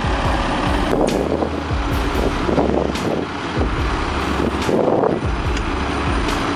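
Heavy diesel earthmoving machines, an excavator and bulldozers, running under load, with occasional sharp metallic clanks.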